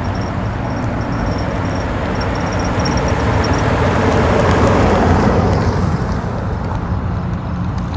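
Distant highway traffic: a steady wash of tyre and engine noise that swells louder about four to five seconds in and eases off again. A high, evenly repeated chirping runs through the first half.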